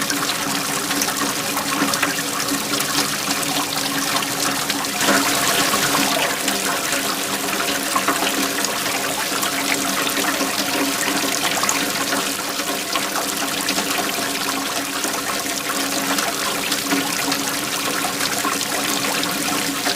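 Waterfall: water pouring and splashing steadily, a dense rushing hiss with fine trickling detail, swelling slightly about five seconds in.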